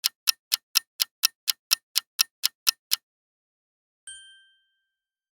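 Quiz countdown timer sound effect: clock-like ticking, about four ticks a second, which stops about three seconds in, followed about a second later by a single short ding.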